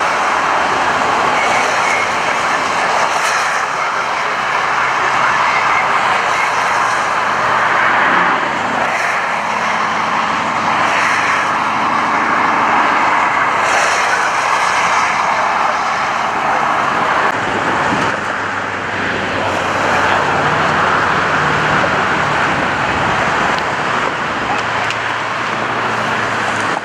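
Steady freeway traffic noise: vehicle engines and tyres running, swelling and fading as vehicles pass.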